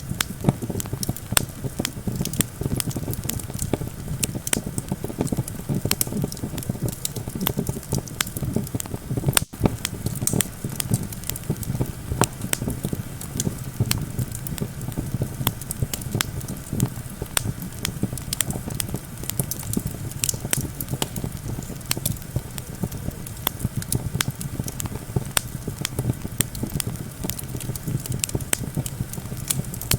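Campfire crackling and popping steadily over a low rumble of wind.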